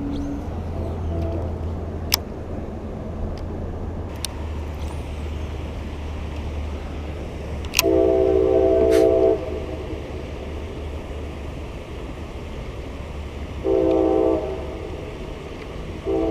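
Multi-tone train horn blowing: a long blast of about a second and a half, then a shorter blast, then another long one beginning near the end. A steady low hum and a few sharp clicks run underneath.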